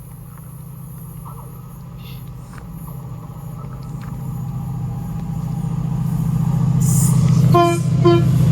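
Class 68 diesel locomotive approaching, its Caterpillar V16 engine rumbling louder and louder. Near the end the train sounds two short horn blasts.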